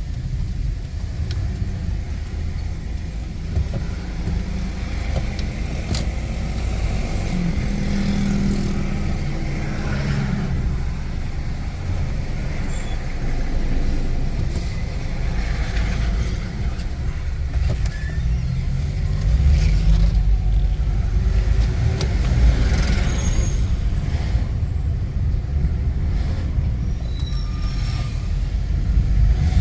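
A vehicle moving through city traffic: steady engine and road rumble, with the engine pitch rising and falling briefly a couple of times.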